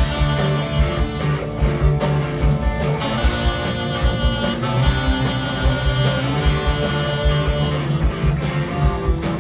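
A band playing an instrumental passage: guitar over a steady bass line and a regular drum beat.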